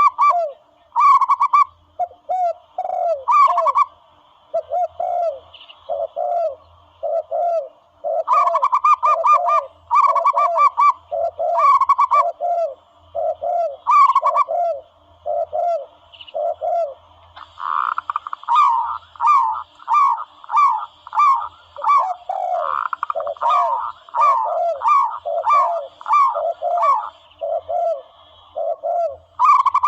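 Recorded dove calls played back as a hunting lure: runs of short, quick cooing notes repeated over and over, with a second, higher series of notes overlapping in bursts.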